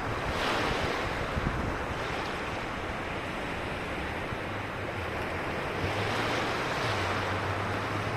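Ocean waves breaking and washing up on a beach, surging twice about five seconds apart, with wind buffeting the microphone. A low steady hum joins underneath about halfway through.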